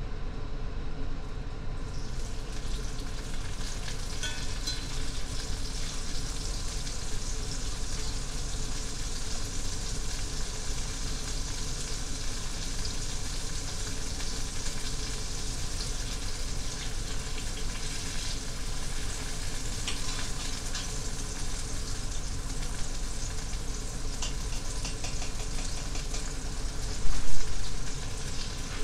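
Wet boiled collard greens sizzling and popping in hot bacon grease in a cast iron skillet as they are turned with tongs. The frying builds up about two seconds in and stays steady, with a brief louder thump near the end.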